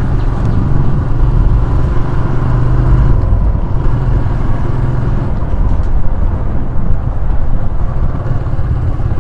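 Motorcycle engine running steadily while riding, with a heavy low rumble on the microphone.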